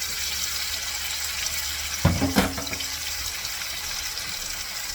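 Chicken breasts frying in butter and olive oil in a pan, a steady sizzle, with a brief knock of a utensil or pan about two seconds in.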